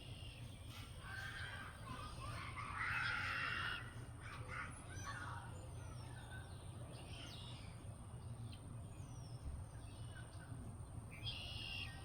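Wild birds calling and chirping in short scattered calls. The loudest is a harsh, noisy call about three seconds in that lasts about a second.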